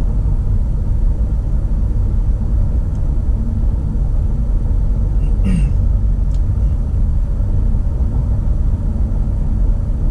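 Steady low rumble of tyre and engine noise inside a moving car, with one brief short sound about halfway through.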